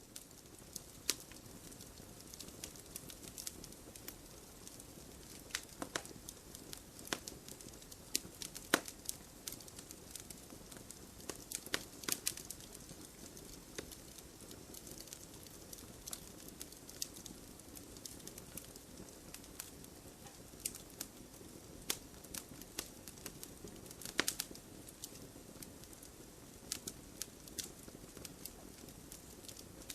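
Wood campfire burning: a steady soft rush of flame with frequent irregular crackles and pops from the firewood, a few of them sharper snaps.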